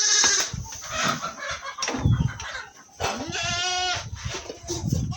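A goat bleating once, a wavering call about three seconds in, over scattered knocks and shuffling from the herd being handled.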